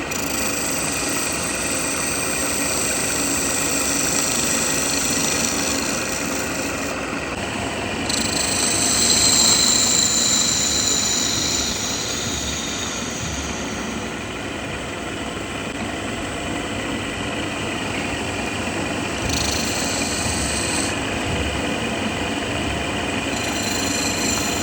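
A motor-driven machine running steadily with a continuous noisy hum. A high hiss comes and goes several times, with a brief falling whine about a third of the way in.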